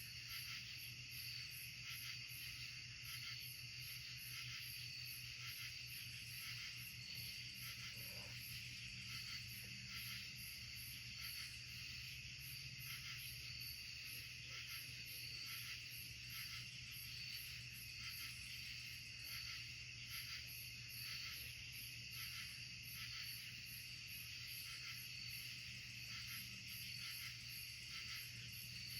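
Night insect chorus: a faint, steady high-pitched trill with a higher pulsing call repeating about twice a second, over a low steady hum.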